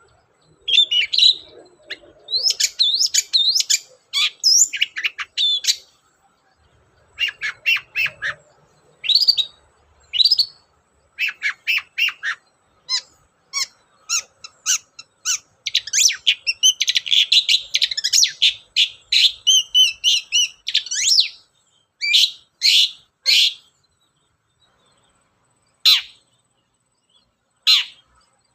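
Long-tailed shrike (cendet) singing, a fast run of harsh chattering and squeaky mimicked phrases in bursts with short pauses. In the last several seconds the song thins to a few short single calls.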